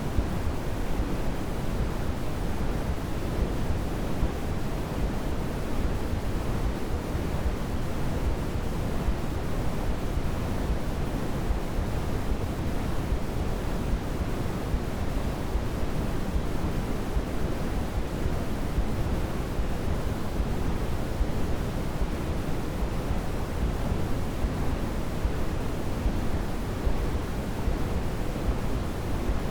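Steady synthetic white noise, an even, unchanging rushing hiss that is heavier in the low end than in the high.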